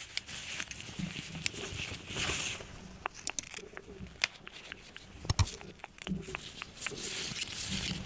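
Irregular small clicks and taps from objects being handled up close, with two longer stretches of rustling, about two seconds in and near the end.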